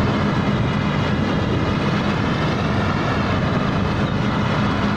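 Rice combine harvester's diesel engine running steadily under load as it harvests in a muddy paddy.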